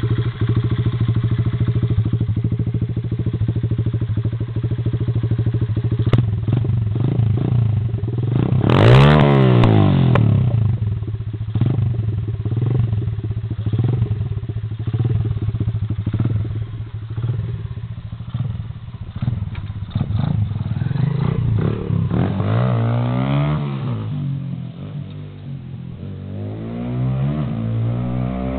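A 125cc pit bike's single-cylinder engine running at a steady idle, then revved up and back down once, sharply, about a third of the way in. After that it runs less evenly, with two more revs near the end.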